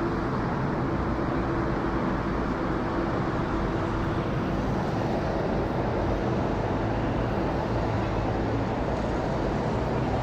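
Boeing 787-10 airliner jet engines, a steady rumble with a faint hum running through it.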